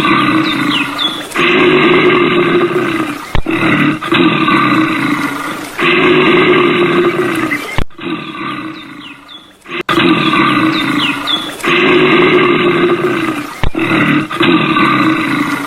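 An animal roaring in loud calls a couple of seconds long, one after another, with abrupt cuts between them.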